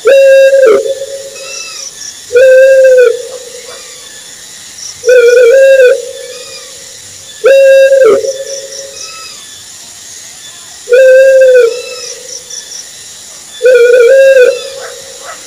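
An owl hooting: six loud, even-pitched hoots under a second each, repeated every two to three and a half seconds, with faint high chirping behind.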